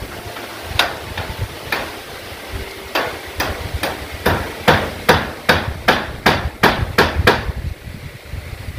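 A hammer striking nails into corrugated zinc roofing sheets: a run of about fifteen sharp blows that speed up to two or three a second before stopping.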